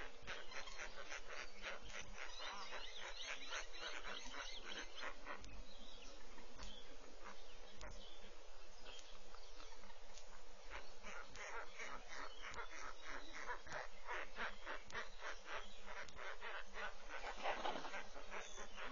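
Small birds chattering in quick, repeated chirps, which ease off about five seconds in and pick up again after about ten seconds.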